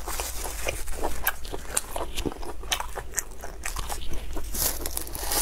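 Close-miked eating: biting and chewing of saucy food in chili oil, with many quick, irregular wet clicks and crackles, over a faint steady low hum.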